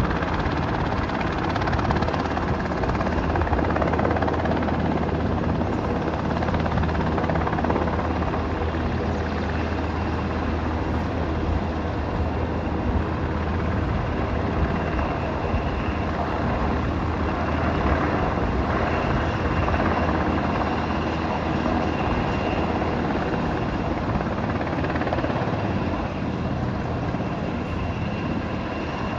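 Military helicopter's rotor and turbine engine running steadily, a little quieter near the end.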